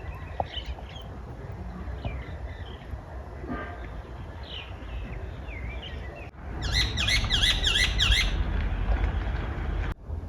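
Outdoor bird calls: scattered short chirps over a steady low rumble. About six and a half seconds in, a louder bird song of rapidly repeated falling notes, several a second, runs for about a second and a half.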